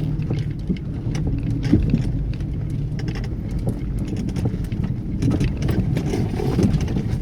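Vehicle engine running at low, steady revs as it creeps up a steep, rutted slope, with scattered knocks and clicks over it.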